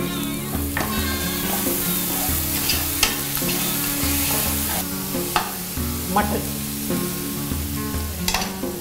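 Garlic and ginger paste sizzling as it fries in oil in a pressure cooker, stirred with a ladle, with several sharp scrapes of the ladle against the pot. Background music runs underneath with a steady repeating bass.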